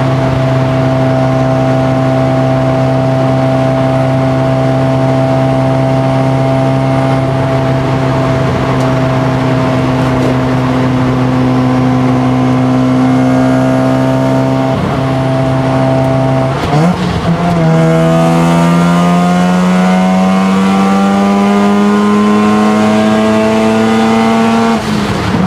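Mazda RX-7 FD3S's single-turbo 13B rotary engine heard from inside the cabin, droning at a steady pitch at speed. About two-thirds of the way through, a quick gear change raises the revs, and the engine note climbs steadily under hard acceleration before falling away just before the end.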